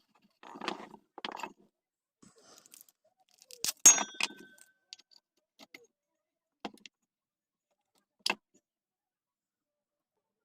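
Metal fan parts and tools being handled on a work surface: two short scrapes, then a ringing metallic clink about four seconds in, the loudest sound, and later two sharp clicks.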